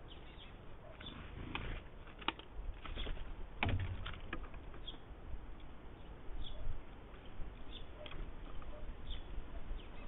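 Short high bird chirps recurring about once a second, with a few sharp clicks and knocks, the loudest about a third of the way in.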